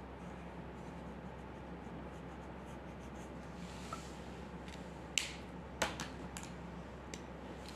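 Drawing tool scratching on paper, with a few sharp clicks past the middle, two of them louder, over a steady electrical hum.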